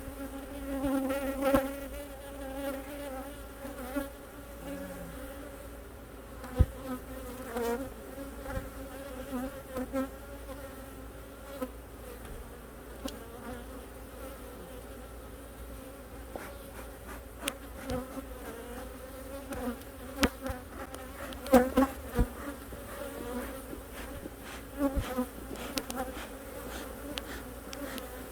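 Many honeybees buzzing steadily around an opened hive, a dense hum with a few sharp clicks and knocks scattered through it. The loudest knocks come in a cluster a little past two-thirds of the way through.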